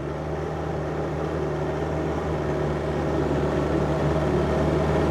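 Diesel engine of a John Deere 50ZTS mini excavator running steadily, growing gradually louder.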